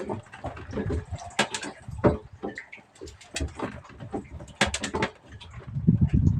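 Irregular clicks and knocks of fishing gear being handled aboard a small boat, with bursts of low rumble growing toward the end.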